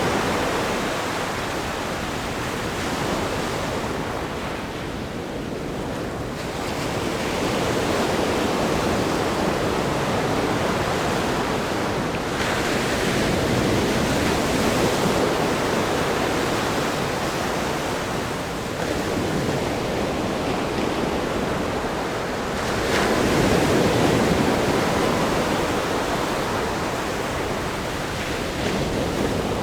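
Ocean surf breaking against a rock groin on a sandy beach: a continuous wash of rushing water that swells and ebbs as each wave comes in, with the loudest surge starting a little over three quarters of the way through.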